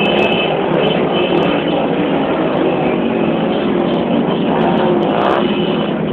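Motorcycle engines running steadily and loudly.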